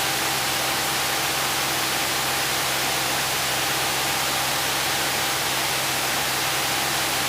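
Steady radio static hiss with a faint low hum on the cockpit radio audio feed.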